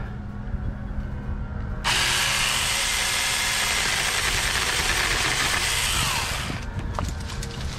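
Battery-powered Saker mini chainsaw starting abruptly about two seconds in and cutting through a small branch for about four and a half seconds, then winding down.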